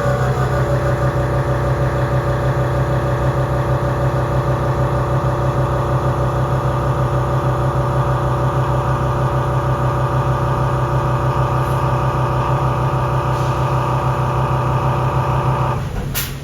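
Spline cutter, a shell-mill-style holder with spline-cutting inserts, cutting a spline in the pump shaft on a Haas VF2 CNC mill: a loud, steady, many-toned hum of the cut. It stops near the end, followed by a short sharp click.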